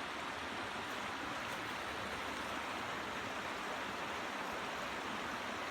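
Creek water rushing steadily, an even hiss of flowing water.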